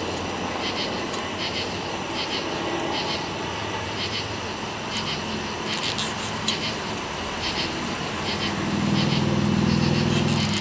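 Insects chirping in a regular rhythm of about two pulses a second over a low steady hum; about eight seconds in, a louder low motor drone swells up.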